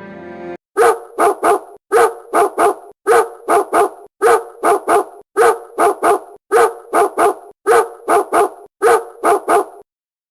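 A dog barking in quick sets of three, about eight sets in a row at an even pace, following a brief tail of music at the start.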